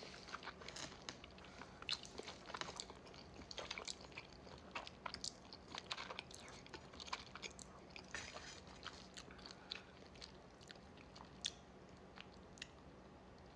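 Faint, close-miked mouth sounds of someone eating saucy ramen noodles: many short wet clicks and smacks of chewing, coming irregularly.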